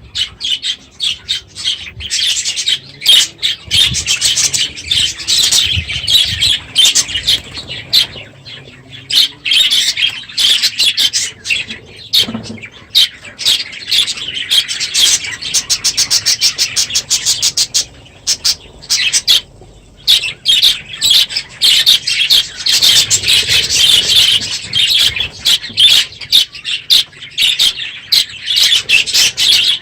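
A large flock of budgerigars chattering, chirping and squawking loudly all at once, with short lulls about twelve and nineteen seconds in.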